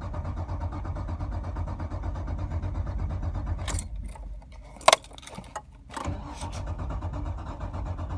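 Car engine cranking on its starter in freezing cold without catching. The cranking stops a little under 4 seconds in, a single sharp click comes about a second later, and the cranking starts again about 6 seconds in.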